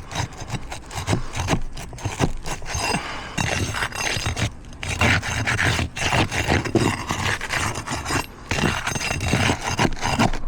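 Steel flat bar scraping and prying under 3-tab asphalt shingles, in irregular rasping strokes, to work nails out; the nails are pulling straight through the torn shingle matting.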